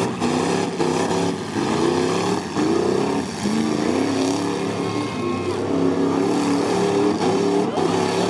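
Several stock V8 car engines revving hard and unevenly, at full throttle as the derby cars shove against each other with wheels spinning in the dirt, with a few knocks of collisions.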